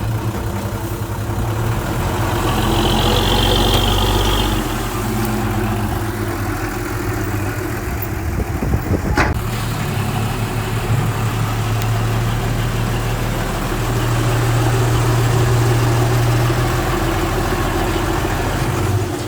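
Diesel engine of heavy earthmoving equipment running steadily, swelling and easing in loudness as it works. A brief high whine comes in a few seconds in, and a single sharp knock sounds about nine seconds in.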